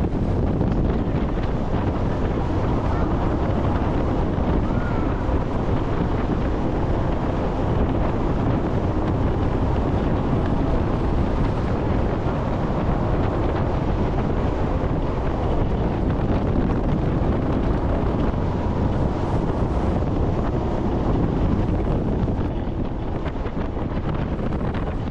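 Wind buffeting the microphone on a jet boat running at speed, over the steady drone of the boat's engine and rushing water.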